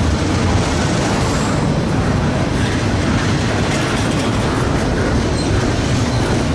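CSX double-stack intermodal freight train's well cars rolling past close by: a steady, loud rumble and rattle of wheels on rail.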